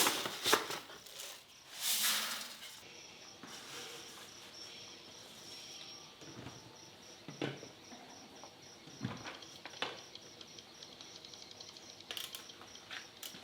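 Insects chirping in a steady, rapidly pulsing high-pitched chorus, with a few scattered knocks and rustles.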